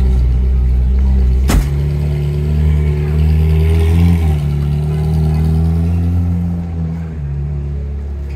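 A car engine idling close by, a steady low hum that rises briefly in pitch about four seconds in, with a single sharp click about a second and a half in.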